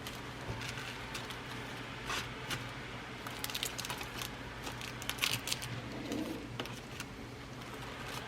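Glass seed beads and their packets being handled: soft rustling of the packets with small, irregular clicks and ticks of beads, in bunches with pauses between.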